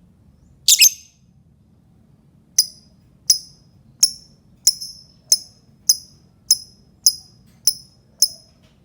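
Lovebird calling: one harsh, high call about a second in, then a run of about ten sharp, high-pitched chirps at an even pace, a little over one a second.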